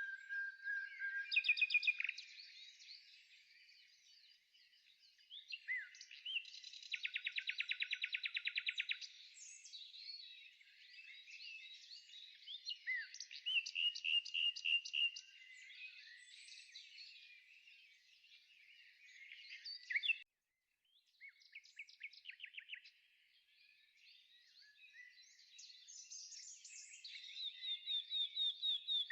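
Songbirds singing: rapid trills, chirps and whistled notes from several birds, with a brief break about two-thirds of the way through.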